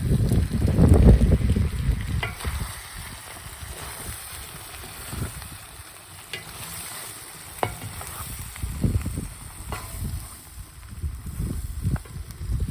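Food sizzling in a kazan of plov, with gusts of wind rumbling on the microphone: loudest in the first couple of seconds, then easing off, then returning near the end. A few light clicks sound over the sizzle.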